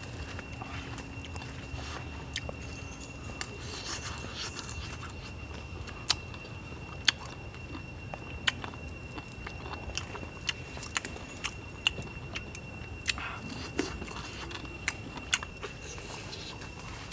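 A person chewing and biting into grilled chicken on the bone, with sharp crunching clicks about once a second in the second half. A thin, steady high tone runs underneath.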